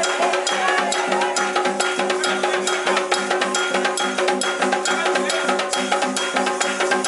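Candomblé ritual percussion: hand drums and a metal bell played in a fast, even beat, over steady held tones.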